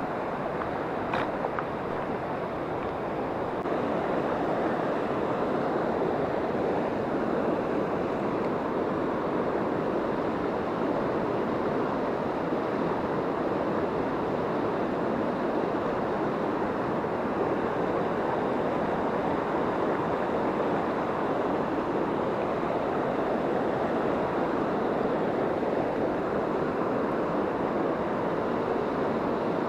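Rushing water of a mountain river, a steady even rush that grows a little louder a few seconds in.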